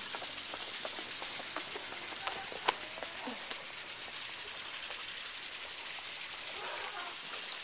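Lawn sprinklers spraying water: a steady high hiss with a fast, even pulsing. A few light clicks, one sharper about three seconds in.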